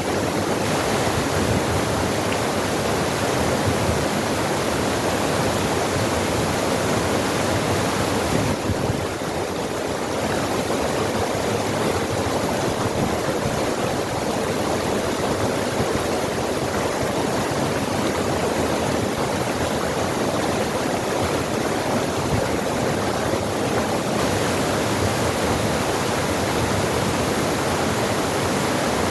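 Water rushing steadily over rocks in a forest stream. The rush dips slightly for a moment about nine seconds in.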